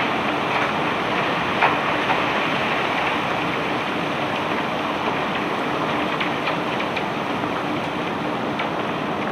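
Cobblestones being unloaded from a barge: a steady rattling rush of stones, with sharper knocks of single stones striking now and then, the loudest about a second and a half in. A low steady hum runs underneath.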